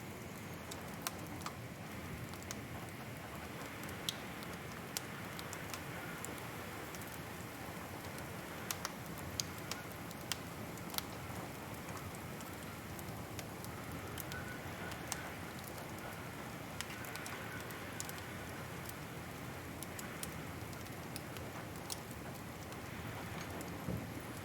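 Wood fire crackling: a steady soft hiss with irregular sharp pops and snaps, a few of them louder around ten seconds in.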